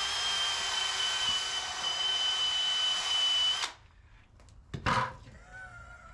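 Power drill spinning a decal eraser wheel at a steady high whine, which cuts off sharply about three and a half seconds in; a single loud knock follows about a second later. The drill is running in the direction that unscrews the wheel from its adapter, so it was not doing the right thing.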